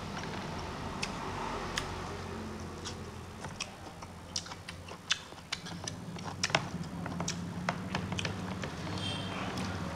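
Close-miked chewing and mouth sounds of a person eating rice and bamboo shoot by hand: a run of short, sharp, wet clicks and smacks, thickest in the middle of the stretch, over a low steady hum.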